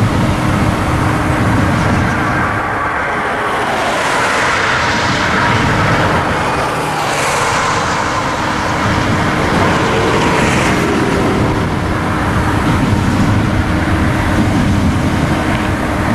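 Freight cars of an intermodal container train rolling past: a loud, steady noise of steel wheels on the rails.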